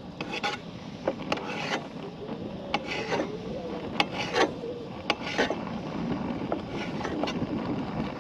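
A knife cutting up cooked sausages in a pan: irregular clicks and scrapes of the blade against the pan, over a steady hiss.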